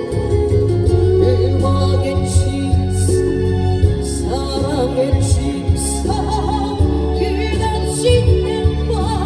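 Adult-contemporary Korean pop song: a woman singing a slow melody with vibrato over band accompaniment, with a steady bass and cymbal strokes.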